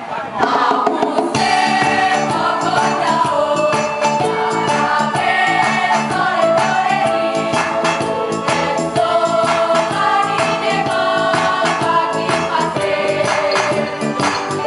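A choir singing together in several voices over a steady percussion beat, the voices coming in about a second in.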